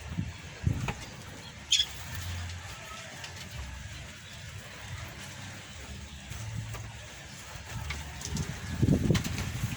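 A few brief bird chirps over a low background rumble.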